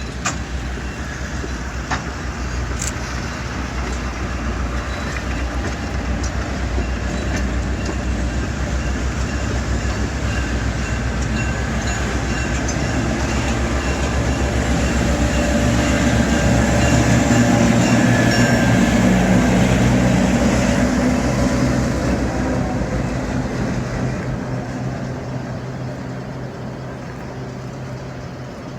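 Diesel locomotive of a GP9 type passing with its train: a steady engine drone that grows louder, is loudest about two-thirds of the way through, then fades as it moves away.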